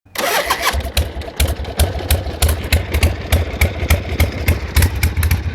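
A vehicle engine idling with a lumpy, uneven pulse a few times a second.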